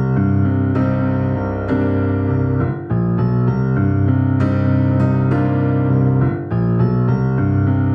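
Electric piano or keyboard playing an intro of sustained chords, a new chord struck about once a second.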